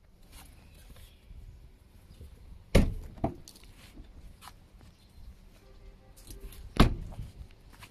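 Two sharp loud knocks about four seconds apart, each followed by a softer knock about half a second later, among faint scattered clicks and taps.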